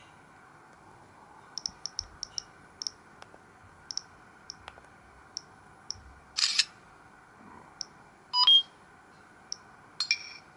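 Samsung GT-C3222W mobile phone being operated by hand: a string of short, light keypad clicks, at times several a second. There is a short noisy burst about six and a half seconds in, and a brief beep, the loudest sound, about eight and a half seconds in.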